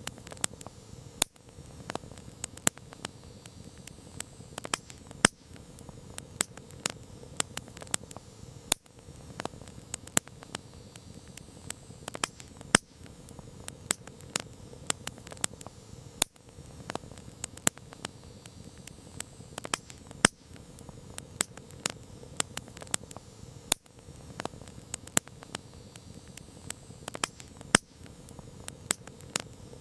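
Campfire crackling: irregular sharp pops and snaps, several a second, over a steady hiss of burning wood.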